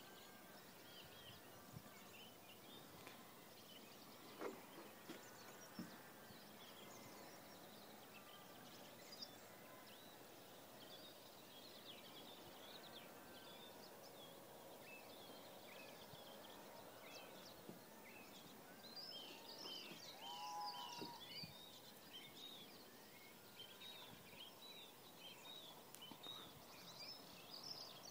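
Faint birds chirping and calling over quiet open-air background hiss, with a busier flurry of calls about twenty seconds in and again near the end.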